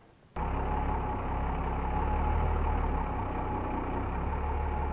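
Pickup truck engine running steadily at low speed.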